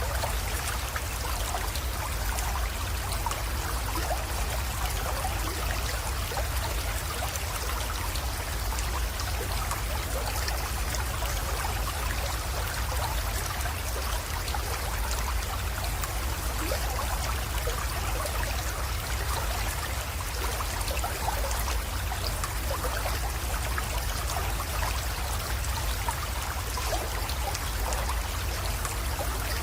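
Small creek flowing and trickling steadily over stones, with fine splashing, over a low steady rumble.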